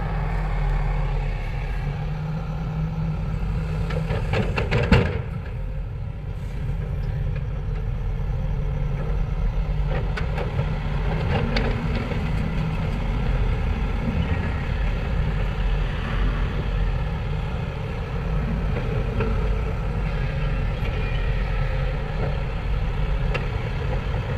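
Heavy diesel engines of an excavator and dump truck running steadily during loading, with one loud clank about five seconds in and a few lighter knocks later.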